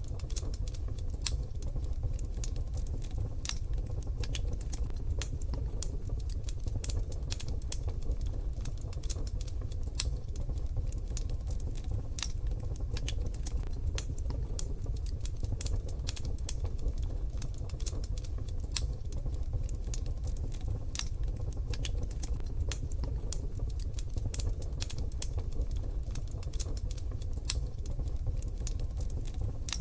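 Wood fire in a wood-burning stove crackling: dense, irregular sharp pops and snaps over a steady low rumble.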